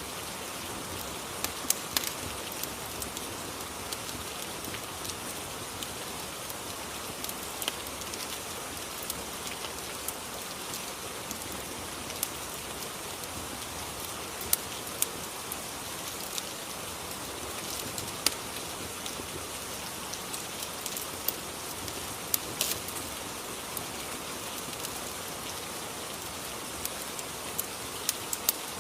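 Rain and fireplace ambience: steady rain, with scattered sharp crackles every second or so.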